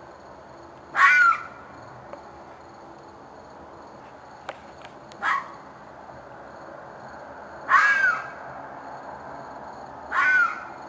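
An animal's short, harsh screaming call, repeated four times a few seconds apart, each with a pitch that rises and falls. The second call is fainter. The owner takes it for a fox or coyote in distress.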